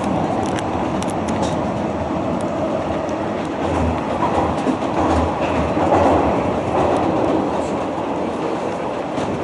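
Hanshin Railway electric train heard from inside the car while running: a steady rumble of wheels on rail, with a few low thumps of the wheels over rail joints about four and five seconds in.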